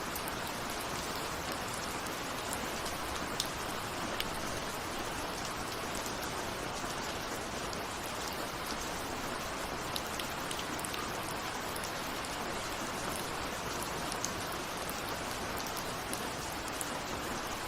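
Steady rain with individual drops ticking on a window, a few drops standing out sharply now and then.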